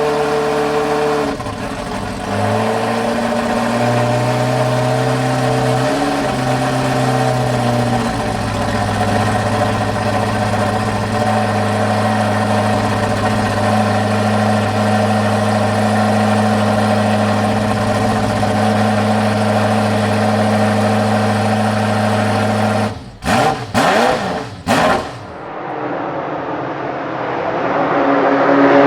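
Ferrari F40 LM's 2.9-litre twin-turbo V8 idling while it warms up; its idle speed steps up and down in the first few seconds, then holds steady. Near the end the sound breaks off and a different stretch of engine sound begins, rising.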